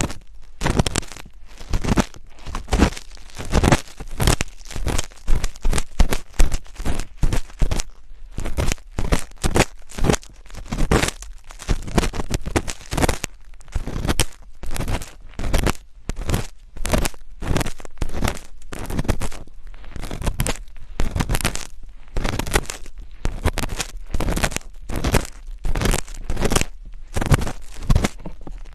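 Close-miked ASMR scratching: quick, irregular scratchy strokes, several a second, with brief pauses between runs.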